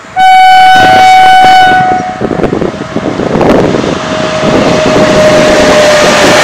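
WAP7 electric locomotive's horn sounding one long blast of nearly two seconds. Then the rumble and clatter of the locomotive and its coaches passing close at speed, with a steady tone running under it from the middle on.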